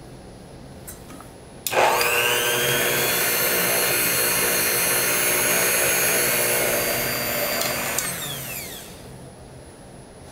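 A food-processing machine's high-speed electric motor switches on suddenly, rises in pitch as it spins up, and runs steadily for about six seconds. It then winds down with a falling whine.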